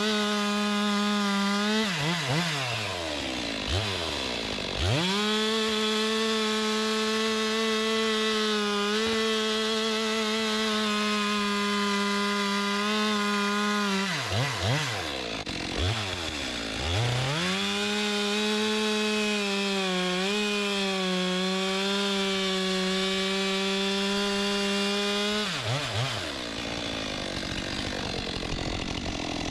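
Stihl MS 462 C single-cylinder two-stroke chainsaw running at full throttle, cutting a log. The revs fall away and climb back twice, then drop near the end.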